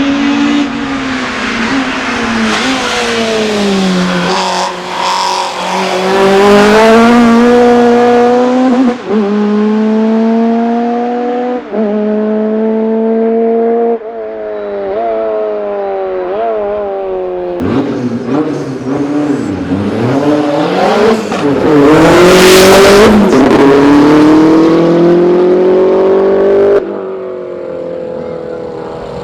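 Race car engines revving hard as the cars accelerate up the course, the pitch climbing and then dropping back at each upshift. The sound cuts between several cars, and one passes close with a loud burst of engine and exhaust noise about three-quarters of the way through.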